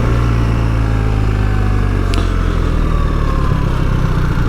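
BMW R 1300 GS boxer-twin motorcycle engine running while being ridden, its pitch slowly falling as the bike eases off.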